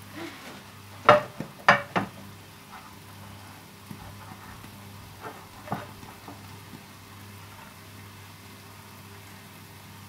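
Kitchen utensil knocking against cookware: three sharp knocks about a second in and two fainter ones around the middle, over a faint steady hum.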